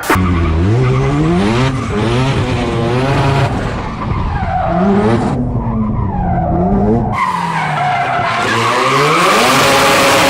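Rotary-engined car driven hard: the engine revs up and down repeatedly at high rpm as the throttle is blipped and held, with tyre squeal growing into a steady screech near the end.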